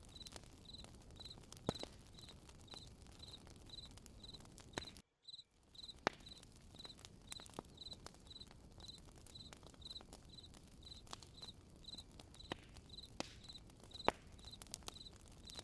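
Crickets chirping steadily at a little over two chirps a second, over a low night-time background with the scattered sharp cracks and pops of a campfire. The sound cuts out briefly about five seconds in.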